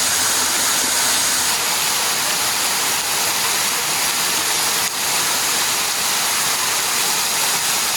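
Waterfall rushing: a loud, steady, unbroken hiss of falling water, with a brief dip about five seconds in.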